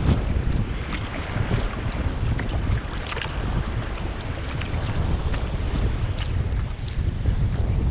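Wind buffeting the microphone in a steady low rumble, over sea water splashing and lapping with scattered small splashes.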